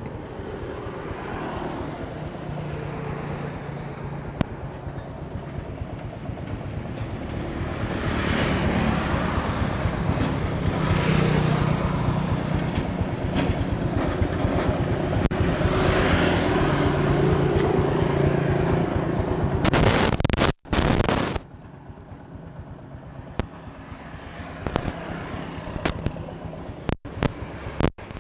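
Honda Future Neo GT's single-cylinder four-stroke engine idling steadily. It grows louder over the first twenty seconds, then after a sudden break it is much quieter, with scattered clicks.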